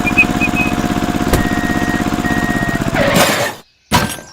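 Mini tractor engine running with an even, pulsing beat. About three seconds in it gives way to a short rush of noise and then near silence, broken by one brief burst.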